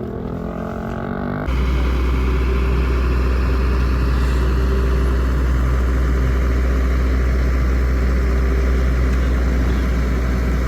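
A heavy vehicle's engine running steadily with a strong low hum. About a second and a half in, the sound switches abruptly from a shifting engine note to this steady one.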